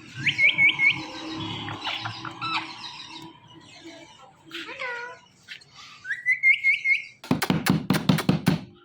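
Indian ringneck parrot chirping: a quick run of about four rising whistled chirps at the start, a short falling call about five seconds in, and another run of four chirps about six seconds in. Near the end a loud run of rapid sharp strokes takes over.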